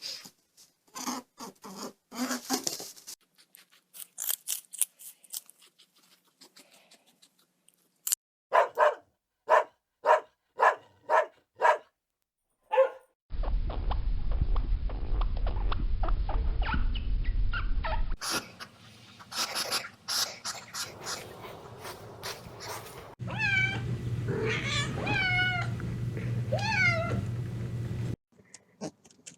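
A string of different domestic animal sounds: short calls and clicks, a run of about six evenly spaced calls, a stretch of low rumbling noise, then a series of high, wavering cries near the end.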